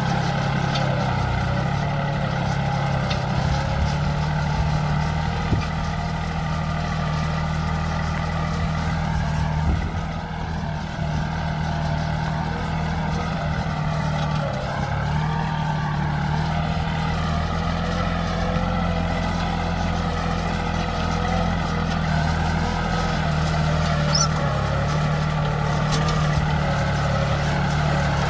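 A 40 hp Yanmar tractor's diesel engine running steadily under load, pulling a share plough. Its pitch sags slightly a few times and recovers as the load changes.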